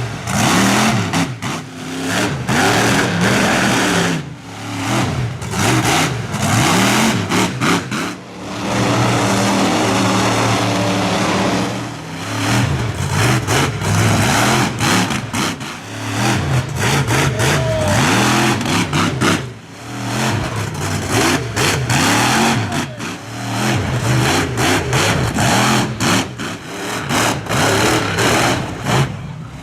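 Monster truck engine revving hard, its pitch rising and falling again and again, with many short sharp cracks and knocks over it.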